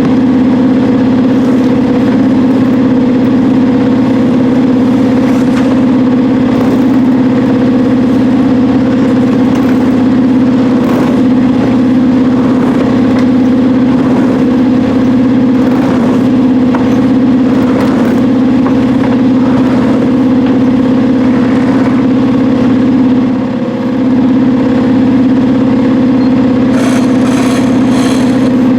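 A sailboat's engine running steadily at a constant speed, a loud even drone that dips briefly near the end.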